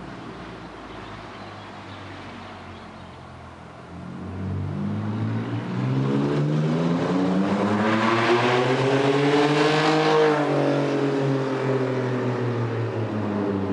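Jeep's 3.7-litre V6 running through a glass pack exhaust as the Jeep accelerates toward and past. The engine note climbs in pitch and loudness, then drops in pitch as it goes by about ten seconds in and fades away.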